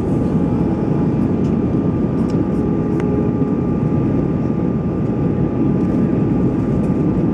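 Steady in-flight cabin noise of an Airbus A320-214 airliner: a loud, even rumble of the CFM56 turbofan engines and airflow, with a thin steady whine on top.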